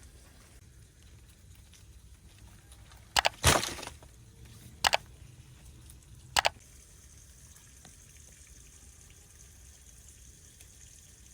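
Three short groups of sharp knocks or clinks, the first and loudest a double click followed by a brief rattle, the others quick doubles about a second and a half apart, over a faint background of trickling water.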